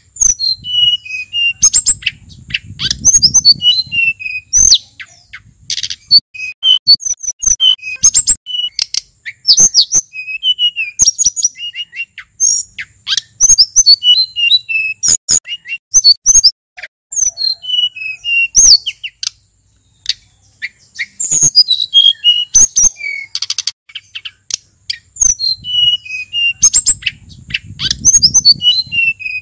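Male sulingan gunung singing continuously in fast, varied phrases of high chirps and short whistled notes, with sharp clicking notes between them. A low rumble sits under the song near the start and again near the end.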